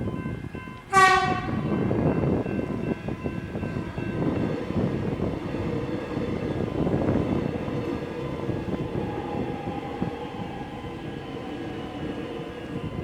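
Metro X'Trapolis 100 electric train sounding a short horn blast about a second in, then rumbling past over the level crossing, while the crossing's electronic bells keep ringing.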